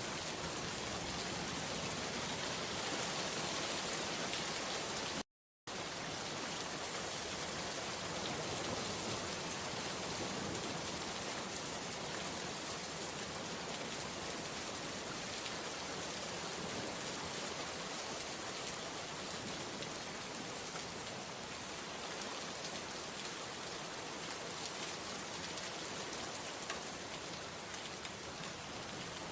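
Steady rain falling, a dense even patter. The sound cuts out completely for a split second about five seconds in.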